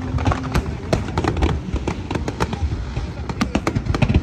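Aerial fireworks going off in quick succession: a dense string of sharp bangs and crackles, several a second.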